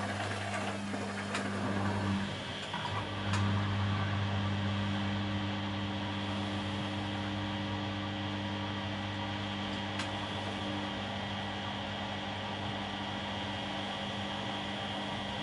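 Bosch Maxx WFL 248Y front-loading washing machine running with a steady low hum, which breaks off for about a second a couple of seconds in and then resumes; a few faint ticks.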